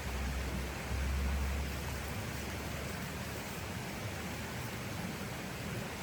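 Snowstorm wind: a steady rushing hiss, with low rumbling buffets of wind on the microphone in the first two seconds.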